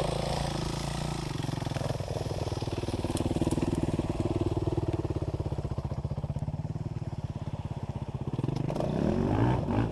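Dirt bike engine running with a steady, fast pulsing note, then revving up with rising pitch near the end.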